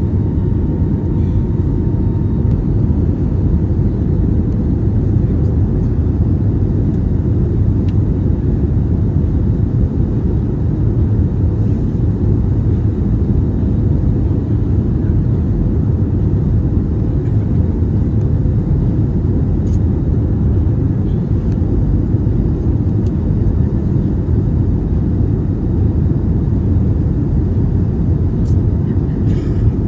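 Steady cabin rumble of an Airbus A320neo in flight, its CFM LEAP-1A engines and the airflow heard from a window seat inside the cabin, with a faint steady hum running through it.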